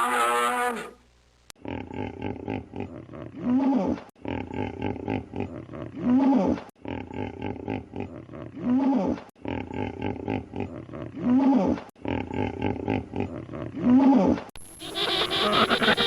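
Animal calls: a long pitched call dies away about a second in, then a noisy stretch ending in a short call that rises and falls repeats five times, about every two and a half seconds.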